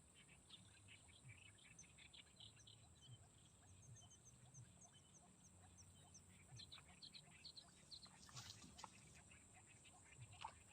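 Faint wild birdsong: many short chirps and a run of quick, high repeated notes, over a steady high-pitched hiss.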